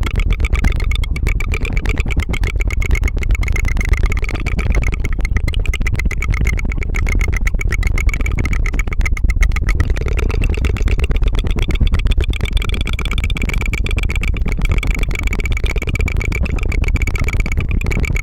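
Mouth sounds: rapid, continuous tongue fluttering, a fast trilled rattle of many clicks that runs on without a break, like a helicopter's chop.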